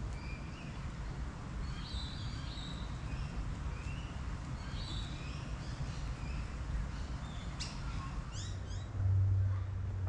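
Wild birds chirping and calling in short, scattered phrases over a steady low rumble, with a quick run of calls near the end. A steady low hum comes in and grows louder about nine seconds in.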